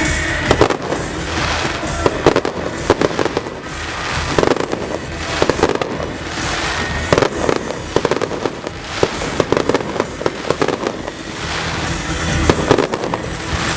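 Fireworks going off in rapid volleys of sharp bangs and crackles every second or two, over music playing for the show.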